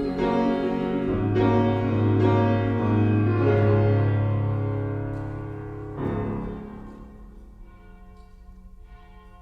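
Closing piano chords of a gospel song, held and fading away, then a softer chord struck about six seconds in that rings on quietly.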